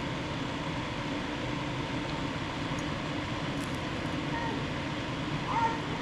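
Steady low rumbling background noise throughout, with a short rising-and-falling animal call near the end.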